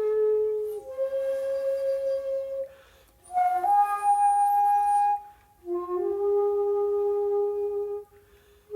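Solo shakuhachi playing slow, long held notes separated by short pauses for breath. The middle note is higher, starts sharply and is breathy, and the last note steps up slightly in pitch as it begins.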